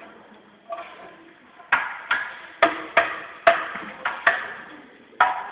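Metal clanks from a manual concrete-block (batako) press, about eight sharp, irregularly spaced strikes with a short ring after each, starting about a second in.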